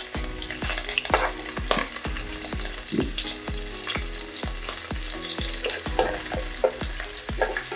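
Shallots, green chillies and curry leaves sizzling in hot coconut oil in a non-stick pan, with a spatula scraping and knocking against the pan in quick even strokes, about two or three a second.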